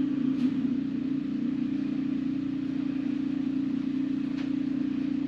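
Snowblower engine running steadily with an even low hum, clearing wet, heavy snow.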